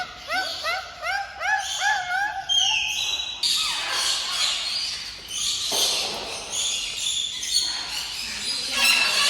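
Birds calling: a quick run of repeated rising calls for the first three seconds, then many birds chirping and squawking at once.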